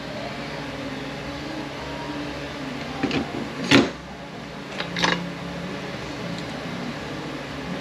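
A few short metal clanks and clicks as transmission internals are handled during teardown, the sharpest just before the middle and a pair about five seconds in, over a steady background hum.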